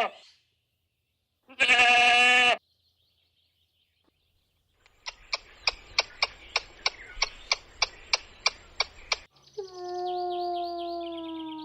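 A farm animal bleats once, about two seconds in. Later comes a run of about fifteen sharp, evenly spaced clicks, roughly three or four a second. Near the end a long pitched call starts and slowly falls.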